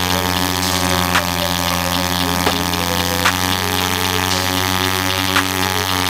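Pit bike engine held at steady high revs during a burnout, one unchanging pitch, with short sharp snaps every second or two.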